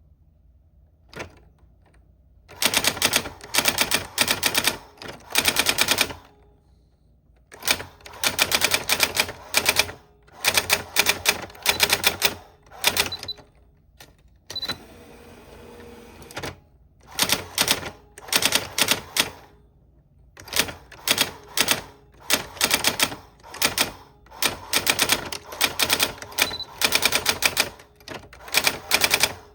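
Old typewriter being typed on: runs of quick, sharp key strikes in bursts with short pauses between words and lines, and a brief continuous rasping sound about halfway through.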